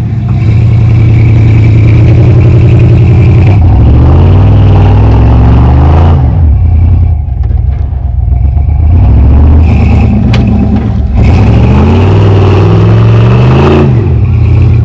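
Modified off-road truck's engine revving hard while stuck in a mud hole, the revs rising and falling. It eases off briefly in the middle, then is revved again and drops back near the end.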